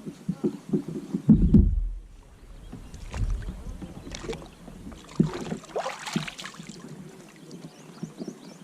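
Kayak paddling: paddle strokes splashing in the water, with scattered knocks and a brief low rumble about a second and a half in.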